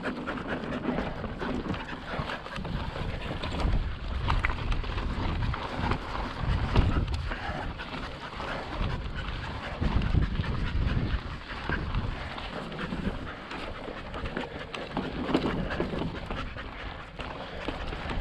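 Mountain bike riding noise on slickrock: wind buffeting the helmet-camera microphone and tyres rolling over rock, with uneven low rumbling swells and scattered small clicks and knocks.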